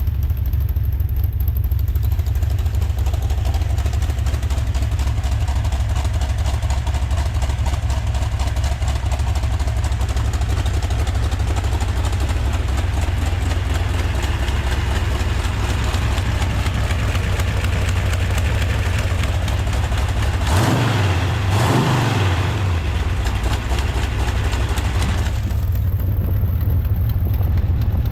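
Freshly built Chrysler 440 big-block V8 with a hydraulic roller cam, being run in, idling steadily; about twenty seconds in the throttle is blipped once and the engine revs up and drops straight back to idle.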